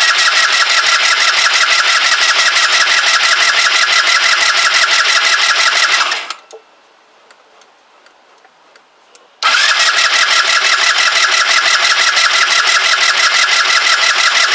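Kymco Agility 125 scooter's single-cylinder engine turned over by its electric starter in two long bursts of steady rhythmic cranking, with a pause of about three seconds between them. The engine does not catch, a no-start that the owner puts down to a fuel supply problem, likely vacuum related.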